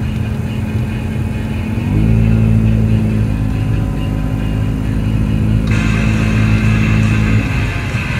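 Car engine running, heard from inside the cabin as a steady hum that steps up in pitch and gets louder about two seconds in, then drops back near the end.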